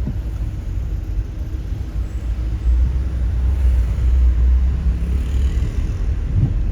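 Car driving: a steady low rumble of engine and road noise, with a brief low knock near the end.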